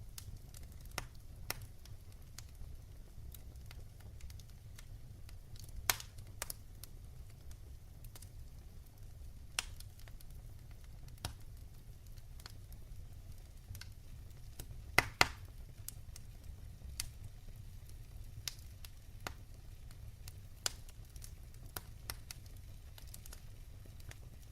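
Wood fire in a fireplace crackling: irregular sharp pops and snaps over a steady low rumble of the flames, with a louder double pop about two-thirds of the way through.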